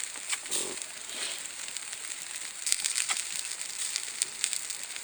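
Open campfire with a duck roasting over it: a steady high hiss with scattered sharp crackles and pops.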